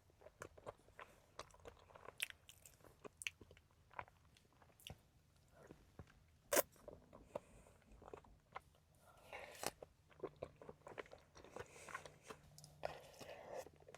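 Close-miked chewing and biting of peach cobbler with a crumbly biscuit top and ice cream: many small wet clicks and crunches, with one sharper click about six and a half seconds in.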